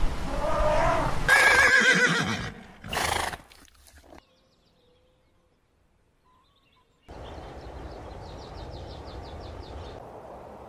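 Horse whinnying: a loud, quavering call for the first three seconds, ending in a short burst. After a pause of near silence, a steady background hiss with a quick run of faint ticks.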